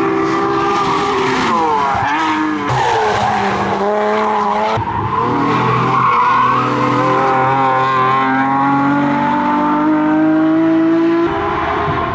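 Nissan 370Z NISMO's 3.7-litre V6 through long-tube headers and an X-pipe exhaust, run hard on track. The engine note drops about two seconds in, climbs again to a break about five seconds in, then rises steadily for about six seconds before cutting off abruptly near the end.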